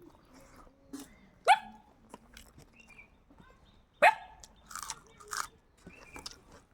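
A dog barking: two sharp barks, one about a second and a half in and another about four seconds in, with softer noises between them.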